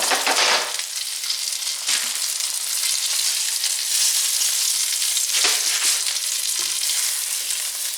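Breaded chicken cutlets frying in butter and olive oil in a skillet: a steady sizzling hiss, with a few brief louder crackles about two, five and a half and six and a half seconds in.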